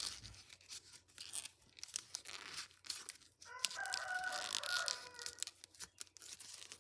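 Sheet of paper being folded and creased by hand into an origami jet, with crackling, crinkling rustles throughout. About halfway through, a separate pitched sound is held for about a second and a half beneath the rustling.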